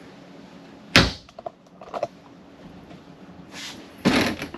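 A sharp knock about a second in, then a few small clicks and rattles, and a louder bang near the end.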